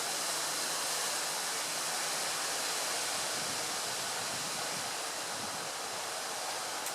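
Strong gusty wind rushing through tree foliage, a steady dense hiss of leaves and branches.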